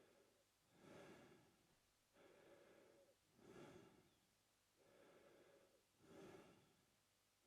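A man breathing slowly and evenly in and out through his mouth, faint, about three breaths.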